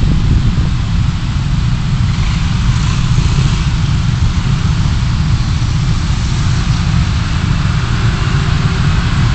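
Car driving, picked up by a dashcam microphone: steady low engine and road rumble, with a brief swell of hiss about three seconds in.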